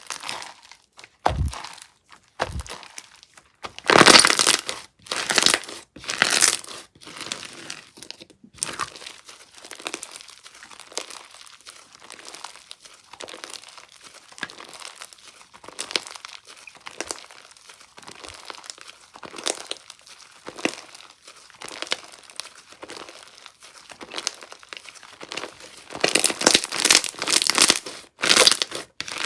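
Slime being stretched, squished and poked by hand, making dense, irregular crackling and popping sounds. It is louder a few seconds in and again near the end, with two low soft thuds at the start.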